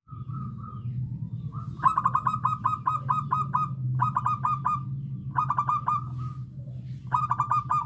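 Zebra dove (perkutut) calling: four quick runs of staccato coos, each of about five to ten rapid notes, the longest run about two seconds in, over a steady low hum.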